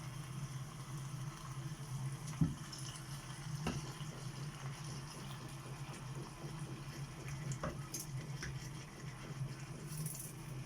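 Liquid sounds, running or bubbling water, over a steady low hum, with a few light knocks.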